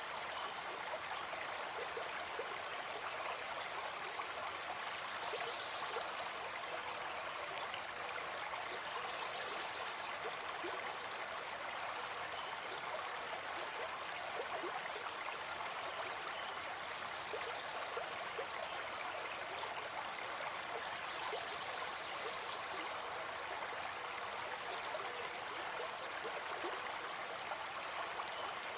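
Gentle forest stream flowing steadily, an even rush of running water.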